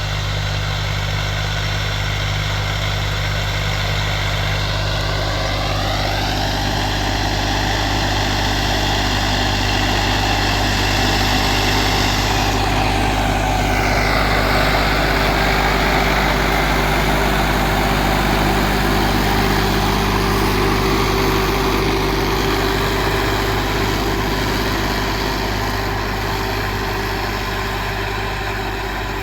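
John Deere tractor's diesel engine running steadily with a low drone. A tone rises about five seconds in, and a sweep falls in pitch around thirteen seconds in.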